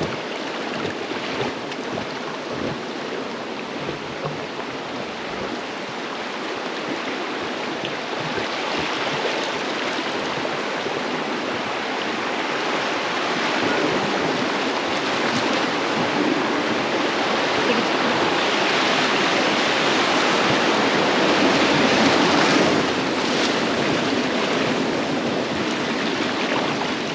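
Fast-flowing river water rushing around a raft, a steady rush that grows louder through the middle and peaks a little past two-thirds of the way before easing slightly.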